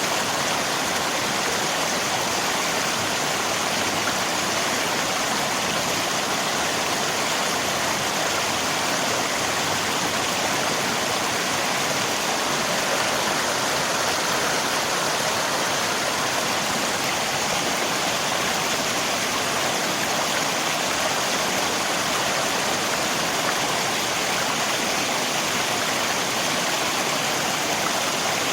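Steady, even rush of flowing river water, mixed with rain.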